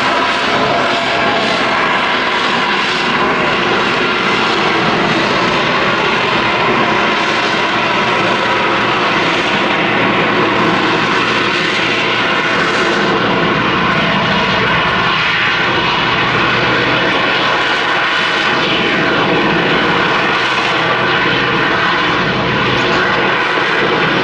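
Display aircraft engine noise, loud and steady throughout.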